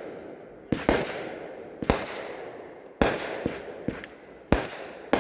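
Consumer fireworks cake firing its shots: about eight sharp bangs, roughly a second apart with some in quick pairs, each trailing off in a fading rumble.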